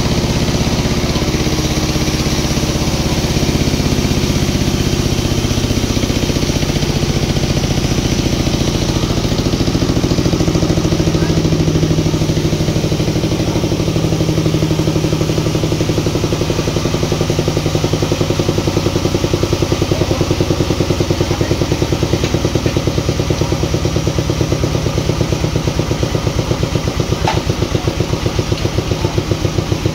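Sawmill engine running at a steady load. Its pitch drops between about two and six seconds in, then holds, and a regular throb grows stronger over the second half.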